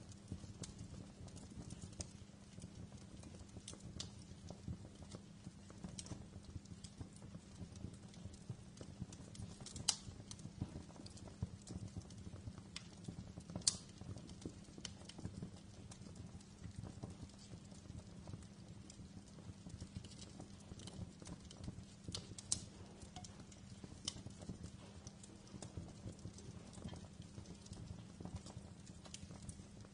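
Fireplace fire crackling: a steady low rumble of burning under frequent small pops and snaps, with a couple of louder pops about ten and fourteen seconds in.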